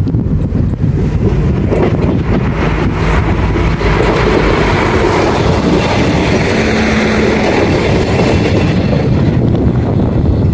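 A train passing on the line, its rumble and wheel noise swelling from about three seconds in and easing near the end, with wind buffeting the microphone.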